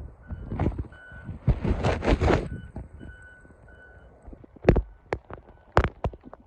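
A vehicle's backup alarm beeping at an even pace. A loud rush of wind buffets the microphone about two seconds in, and a few sharp knocks come near the end.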